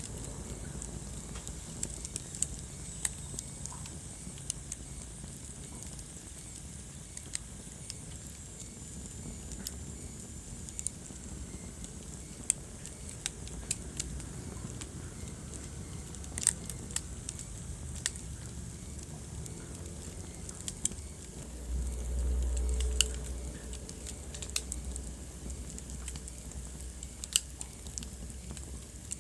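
Wood fire burning in a fireplace, crackling with scattered sharp pops over a steady low rumble. A deeper rumble swells for a couple of seconds about 22 seconds in.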